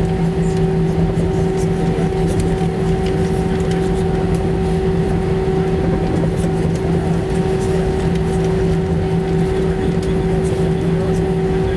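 Cabin noise of an Airbus A319-115 with CFM56 engines: a loud, steady roar with a constant multi-tone hum and no change in pitch.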